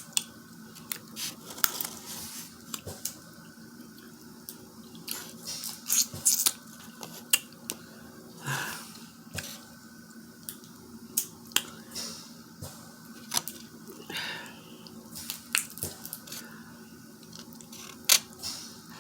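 Close-miked eating of a seafood boil: irregular sharp cracks and clicks of shells being broken and picked apart, with wet squishing and chewing in between.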